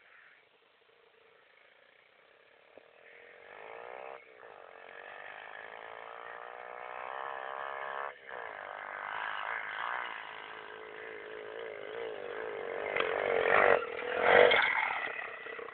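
110cc pit bike engine revving hard as it climbs, faint at first and then rising in pitch and loudness. It dips sharply twice, about four and eight seconds in, and is loudest near the end.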